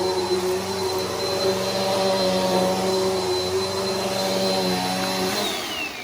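Bissell PowerForce Helix upright vacuum running steadily with a high motor whine, then switched off near the end, the whine falling as the motor spins down.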